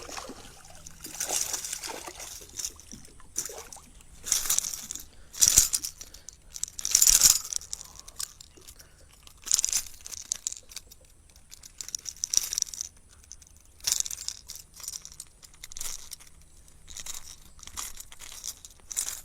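Irregular short splashes of water, one every second or two, the loudest a few seconds in.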